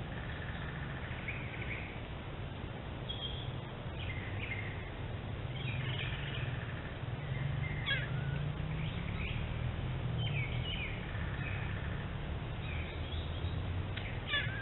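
Wild birds calling with short chirps and whistles, some sliding in pitch, scattered all through, over a steady low hum.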